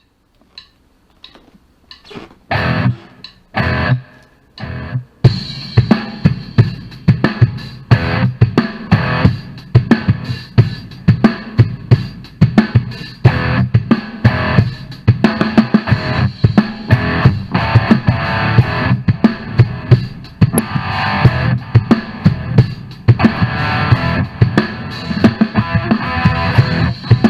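Hard rock instrumental with guitar and drum kit. It opens with separate, spaced hits that grow louder, then the full band comes in at about five seconds and plays on steadily.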